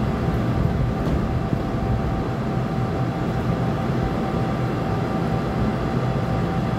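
Stopped NJ Transit bilevel commuter train idling at the platform: a steady low rumble and hum from its onboard equipment, with a faint steady whine.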